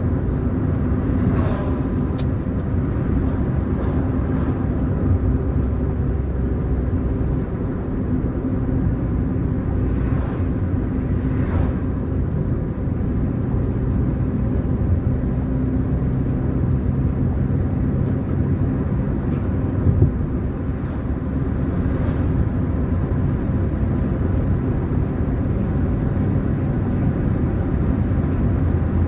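Steady engine and road drone of a car being driven, with a low, even hum throughout and one short knock about two-thirds of the way through.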